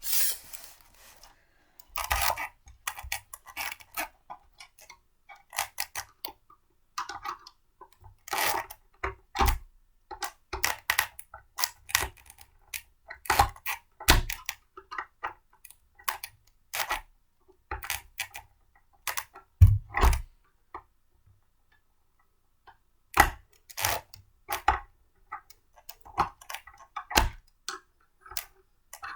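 Blender parts being handled and fitted together: irregular clicks, taps and knocks of hard plastic and metal pieces, with a louder knock about two-thirds of the way through and a short pause just after it.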